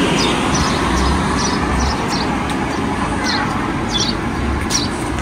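A small bird calling: short, high chirps, each sliding downward, repeated about once or twice a second, over a steady rushing background noise.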